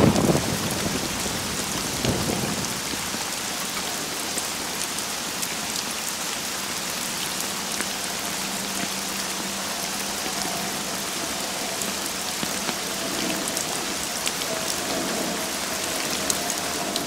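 Steady rain falling and pattering, with fine drops spattering throughout. A loud low rumble like thunder comes right at the start, and a weaker one about two seconds in.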